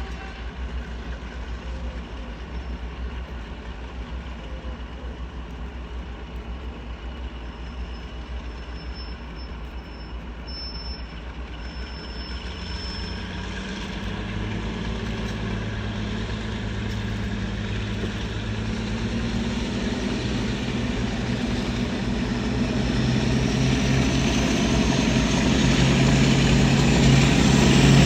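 Heritage diesel locomotive engine running, growing steadily louder over the second half as it powers up or draws closer, with a high whine creeping up in pitch near the end.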